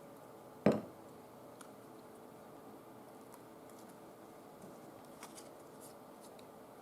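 A single sharp thump on a tabletop about a second in, followed by faint small ticks and rustles of paper being handled.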